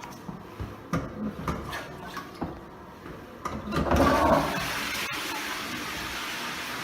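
Toilet with a DUX cistern flushing: a few knocks and clicks, then about four seconds in the flush gushes loudly and settles into a steady rush of water.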